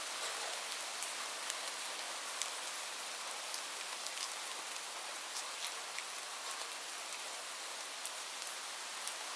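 Steady rain falling on a surface: an even hiss with scattered sharp drips and ticks.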